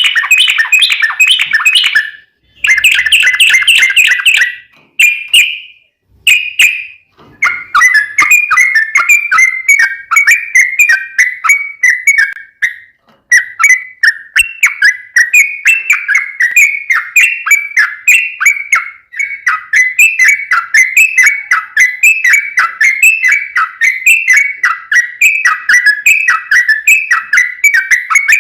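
Yellow-vented bulbul (trucukan) singing its long rapid song. A few loud, bubbly phrases with short pauses come in the first several seconds, then a continuous run of quick, repeated chattering notes, several a second.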